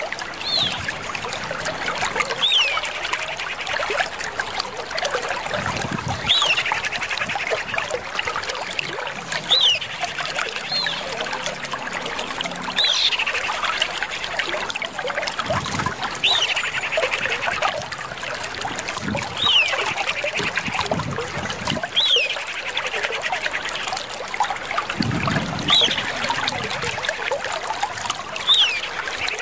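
Female common iora calling repeatedly, about every three seconds: a short whistle that hooks up and drops, followed by a buzzy trill. A few low thuds sound in the background.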